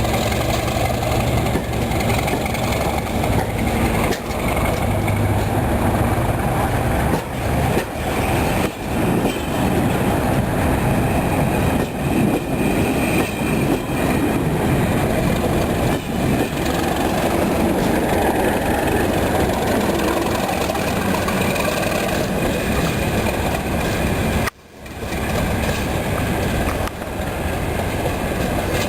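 Class 37 diesel locomotives, with English Electric V12 engines, running as they haul a train, their low engine note mixed with the rumble of train wheels and occasional knocks. The sound briefly cuts out near the end.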